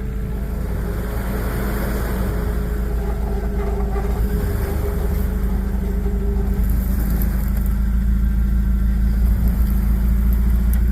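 A 4x4's engine running steadily under load as it pushes into a deep mud hole and bogs down. The engine gradually gets louder through the clip.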